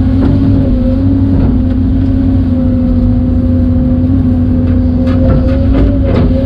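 Excavator's diesel engine running steadily under load with a constant hydraulic whine. A few short knocks come in the last couple of seconds.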